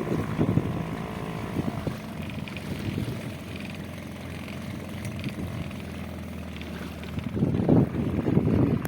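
A boat engine running steadily under way, with gusts of wind buffeting the microphone briefly at the start and again near the end.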